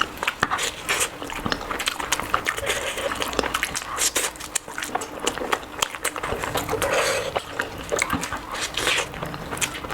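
Close-miked eating sounds: a person chewing curry with rice and naan, with many wet smacking and squelching clicks from the mouth.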